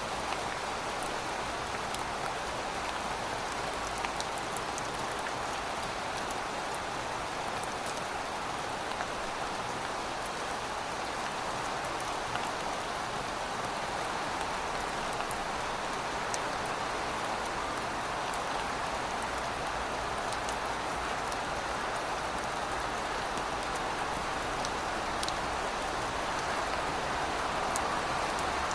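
Steady rain falling, an even hiss with scattered individual drops ticking sharply.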